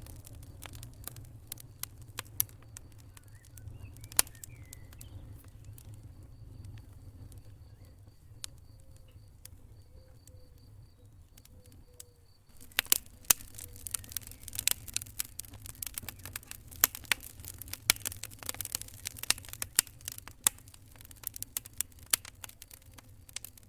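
Wood fire crackling, with sharp pops over a low steady rumble of flames. The pops are sparse at first, then turn much denser and louder about halfway through.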